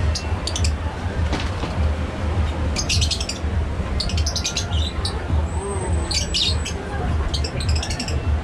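Birds in an aviary chirping in several quick bursts of rapid high chirps, with a short high whistle near the middle. A steady low rumble runs underneath.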